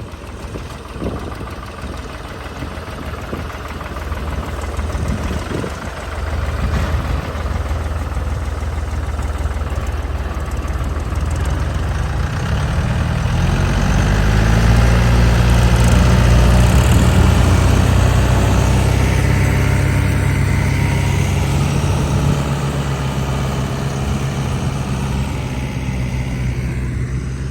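Yanmar 725 tractor's diesel engine running continuously; about halfway through it revs up and holds at a higher, louder speed, then eases off slightly near the end.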